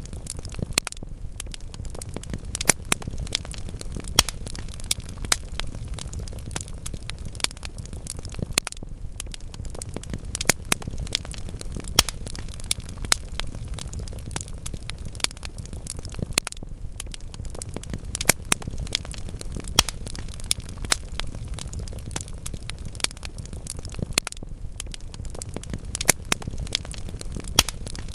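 Burning wood logs in a fireplace, crackling steadily with frequent sharp pops at irregular intervals over a low, constant rumble of flame.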